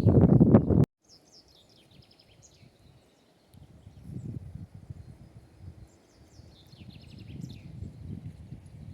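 Wind buffeting the microphone, cut off abruptly just under a second in. Then a small songbird chirps in two quick runs of high notes, over a low, uneven rumble of wind.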